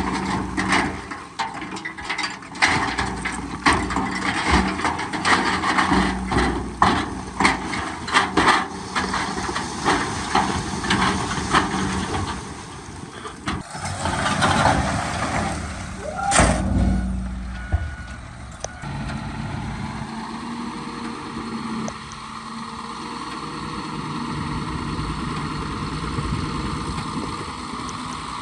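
Diesel earthmoving machinery running, with irregular clanks and knocks through the first dozen seconds, a loud burst about sixteen seconds in, then a steady engine drone.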